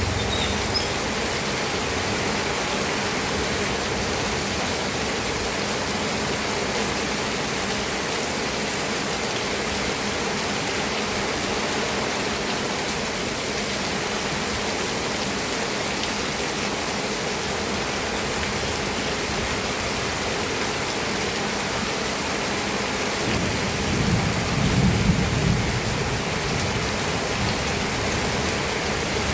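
Steady heavy rain falling, an even hiss. A low rumble of thunder swells about three-quarters of the way through, with a brief rumble also at the very start.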